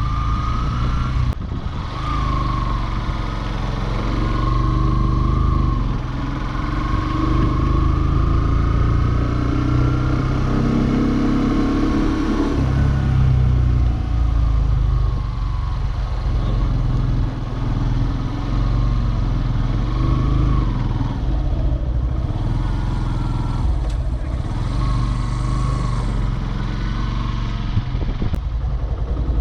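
Yamaha FZ-S V3's single-cylinder engine and exhaust running while the motorcycle rides along, its pitch rising and falling as the throttle is opened and eased, over a steady low rumble.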